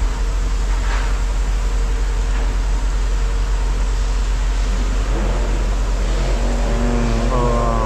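Steady low rumble of running machinery, with a pitched hum building up over the last two to three seconds.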